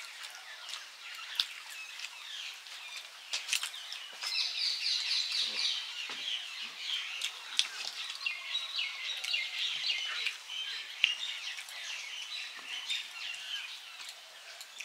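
Songbirds chirping and twittering continuously, busiest in the middle, with a few sharp clicks.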